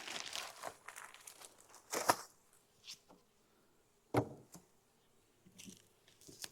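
Rustling and crinkling handling noises, with a sharp knock about two seconds in and another about four seconds in.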